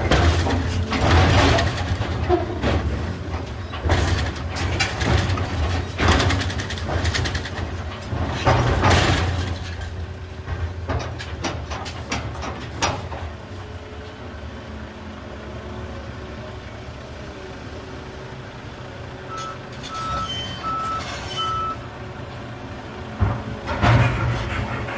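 Volvo EC380EL excavator's diesel engine running under load while big rocks crash and clatter into a truck's dump body, loudest in the first half and again near the end. A backup alarm beeps about four times in the quieter middle stretch.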